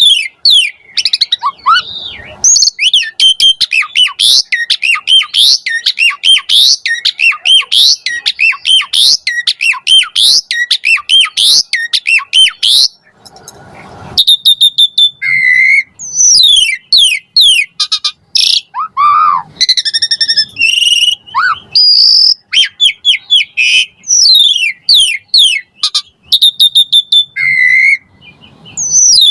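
Asian pied starling (jalak suren) singing a long, varied song in full flow: fast runs of short rising whistles and chattering notes, with a brief pause about halfway through.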